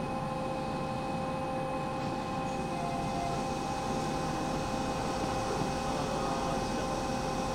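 Hanshin Railway electric train at the platform, giving off a steady electrical hum of several held tones over a low rumble.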